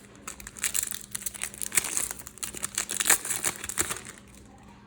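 Crinkling and tearing of a foil trading-card packet as it is opened by hand, a dense run of sharp crackles lasting about four seconds.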